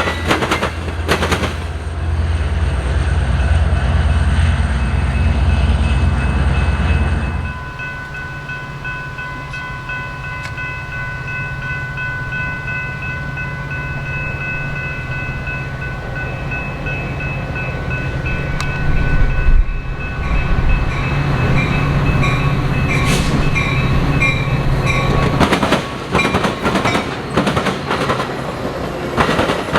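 A train passing close by: a deep diesel locomotive rumble for the first seven seconds or so, then the cars rolling past with a steady high whine. Rapid clacking of wheels over rail joints comes in near the end.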